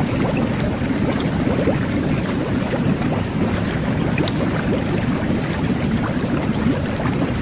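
Jet bath running: water churned steadily by the underwater jets, with a dense bubbling and gurgling.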